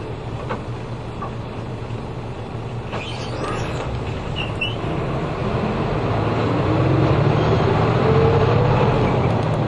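Route bus heard from inside the cabin, its engine running and then revving up as the bus pulls away, the engine note rising and getting louder from about halfway through.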